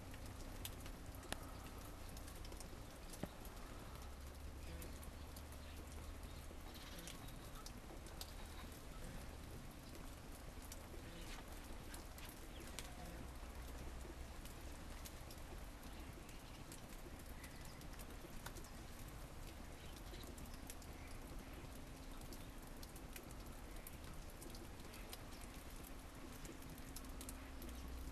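Faint snowstorm ambience: a steady hiss scattered with many small ticks, with a low rumble underneath.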